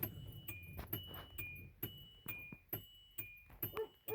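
Car warning chime in a 2010 Hyundai Accent, ringing over and over in a steady rhythm of about two strikes a second that alternate between two high tones, with the key in and the engine not yet started.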